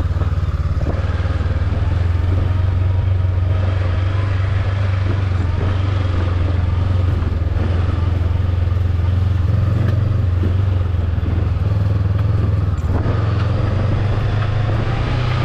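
Motorbike running steadily on the move, a loud, even low drone throughout.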